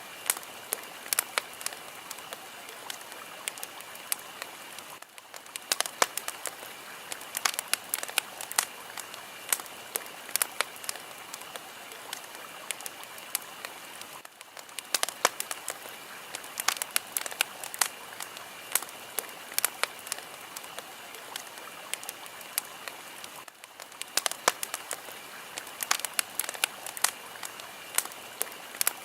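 Fire crackling, with frequent sharp pops and snaps over a steady hiss. The hiss dips briefly about every nine seconds.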